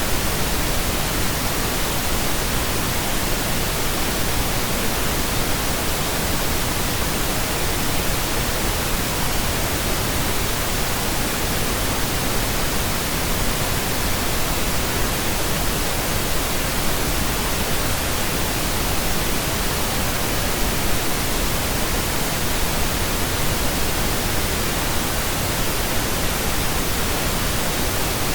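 Steady, unchanging pink noise: an even synthetic hiss spread across all pitches.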